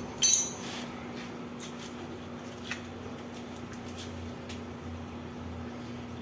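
One hard hammer blow on steel with a short bright ring, striking against the seal and bearing of an industrial washing machine's drum to drive them out. A lighter metallic tap follows about two and a half seconds later.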